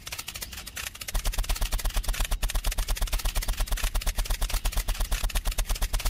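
Small engine running at a steady low speed with an even chugging beat, about nine beats a second, growing louder about a second in.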